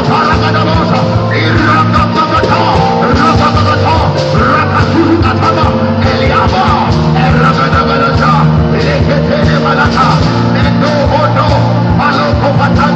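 Loud live worship band music with drums and singing voices.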